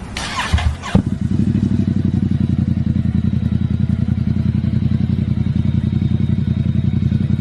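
A sharp clack about a second in, then a motorcycle engine running steadily with an even, rapid throb.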